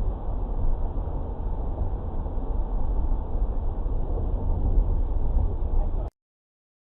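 Steady low rumble of a vehicle driving, road and engine noise, cutting off suddenly about six seconds in.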